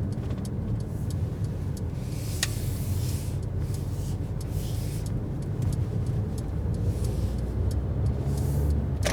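Steady low rumble of road and engine noise inside the cabin of a 2019 Mercedes A-Class driving on a snow-covered road, with scattered faint ticks and brief patches of hiss.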